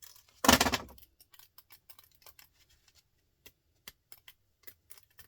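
Scrap metal parts being handled on a workbench: a short metallic clatter about half a second in, then scattered light clicks and taps.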